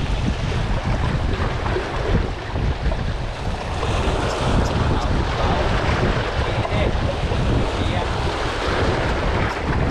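Strong wind buffeting the microphone in a steady low rumble, with waves breaking on the shore behind it.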